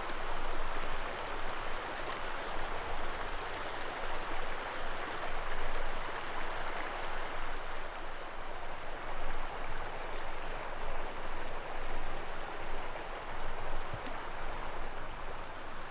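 Steady rushing noise of running water, rising and falling slightly in loudness.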